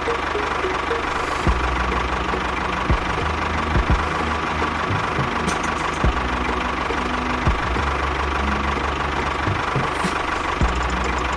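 A small motor running steadily, with short knocks every second or so.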